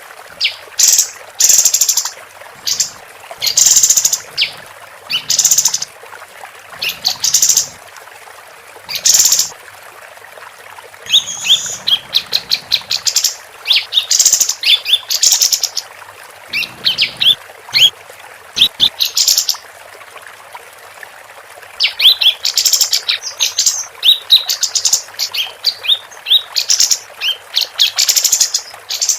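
Female kapas tembak singing loud chirping phrases of about a second each with short pauses between them, breaking into rapid runs of quick chirps about halfway through and again near the end, over a steady background hiss.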